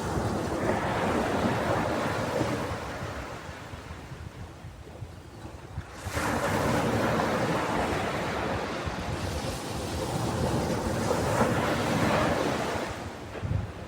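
Ocean waves breaking and washing up a shore, two in turn. The first swells and fades away by about halfway; the next comes in suddenly about six seconds in and washes on for several seconds before easing off.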